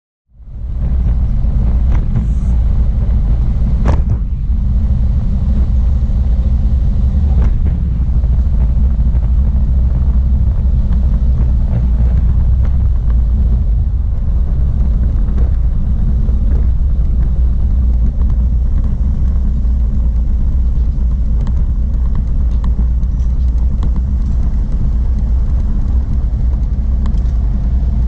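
Motorcycle riding at a steady speed: a steady, loud low rumble of engine and wind.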